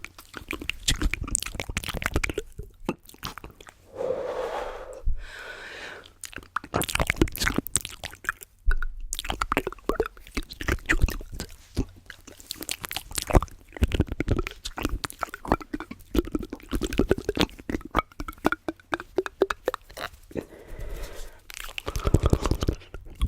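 Close-miked ASMR mouth sounds and tapping: a dense, irregular run of small clicks and taps. There are two brief voiced mouth sounds, about four seconds in and near the end.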